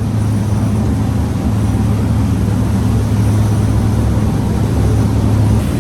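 Steady low drone of a passenger boat's engines, with an even rushing noise over it.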